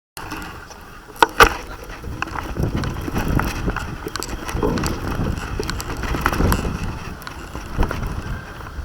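Wind buffeting a small camera's microphone, a gusty rough rumble, with two sharp knocks about a second in, likely the camera being knocked or handled.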